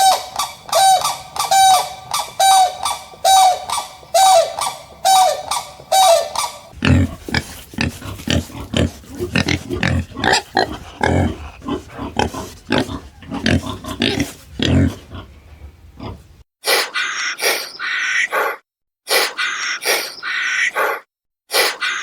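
Three different animal sounds one after another. First a short call repeated about every 0.8 s. About six and a half seconds in, low rough grunts take over. From about sixteen seconds, harsh calls follow with short pauses between them.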